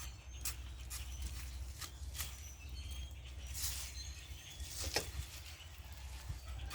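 A hand garden tool working the soil of a garden bed, with irregular scrapes and knocks as manure is mixed in. Birds chirp briefly in the background.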